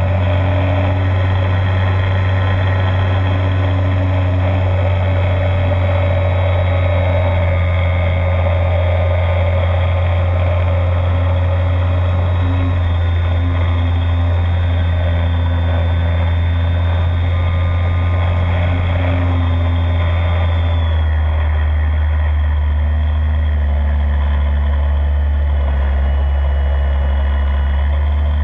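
A radio-controlled Beaver model in flight, its motor and propeller running steadily as heard from inside the fuselage, with a low hum and rushing air. About 21 seconds in, the tones shift slightly lower as the throttle changes.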